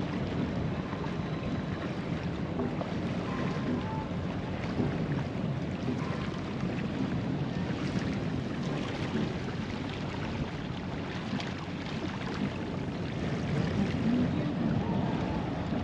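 Steady wind and water noise aboard a sailboat underway, with wind buffeting the microphone.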